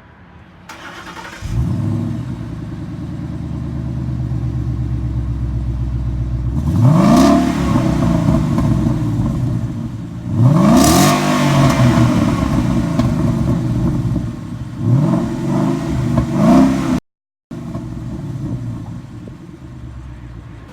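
Ford 5.0 V8 on its stock exhaust starting up about a second and a half in, then idling and revved three times, the last as a quick double blip. The sound cuts out for half a second near the end.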